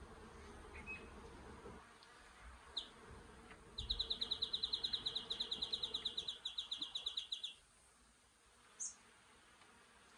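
Bees buzzing faintly and steadily. A loud, rapid trill of high pulses, about ten a second, breaks in about four seconds in and stops after some three and a half seconds, with a few short high chirps around it.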